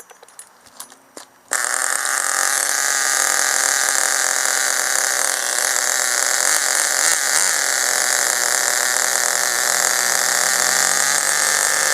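Vertex .18 nitro engine running steadily during a pinch test of the low-speed needle setting, cutting in abruptly about a second and a half in after a few faint clicks.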